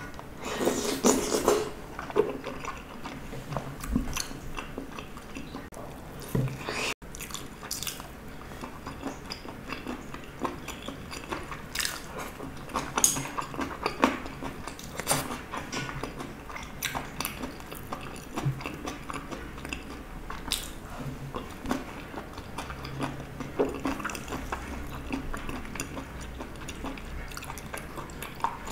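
Close-up eating sounds: mouth-noisy chewing and biting of soft food such as steamed egg and rice ball. Chopsticks and a spoon click against the plastic containers.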